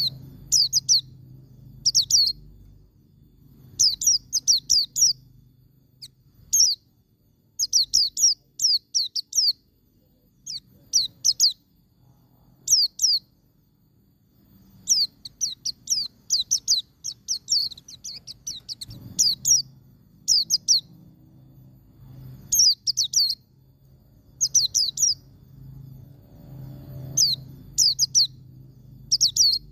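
White-eye (pleci) singing its 'ngalas' song: quick clusters of two to five high, downward-sliding chirps, repeated with short pauses between.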